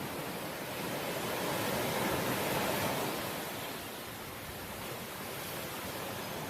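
Ocean waves washing ashore, a steady rush that swells to a peak a couple of seconds in and then eases off.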